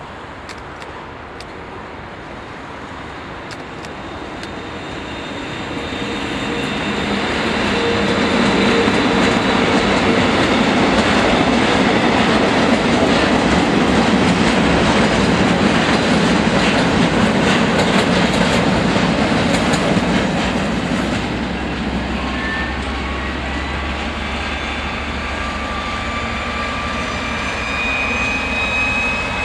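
A freight train of tank wagons hauled by a DB class 140 electric locomotive rolling past. Its wheels clatter over the rail joints, swelling to a loud, steady rush through the middle. About two-thirds of the way in this gives way to a 'Ludmilla'-type six-axle diesel locomotive running, a steady low rumble with a thin high whine.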